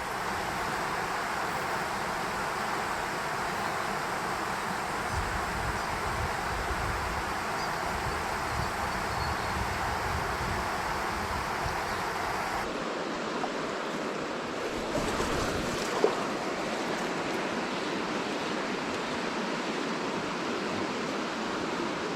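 Steady rush of flowing stream water, with wind rumbling on the microphone for roughly the first half; the rumble stops abruptly about halfway through, and a single short knock comes a few seconds later.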